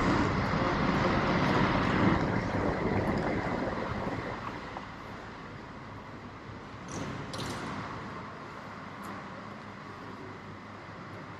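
A passing vehicle, an even rushing noise that fades away over the first few seconds. It leaves a quieter background of outdoor traffic with a few faint clicks.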